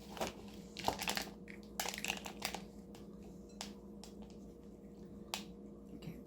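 Gelatin-bound birdseed being scooped and pressed into a feeder mould by hand: crunching, crinkling rustles in two short bursts in the first few seconds, then a couple of single clicks.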